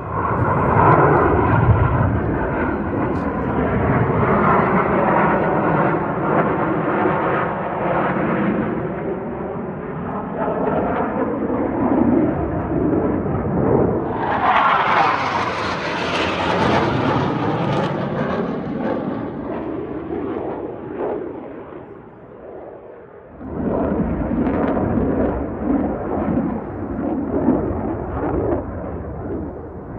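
Aircraft flying low overhead: loud engine noise with sweeping tones that slide down and up as it passes. About fourteen seconds in a brighter, hissing surge comes through. The sound drops away for a moment near twenty-three seconds before coming back.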